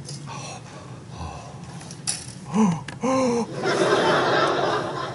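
A sharp click, then two short pitched voice-like sounds, the first rising in pitch; then about a second of canned audience laughter near the end.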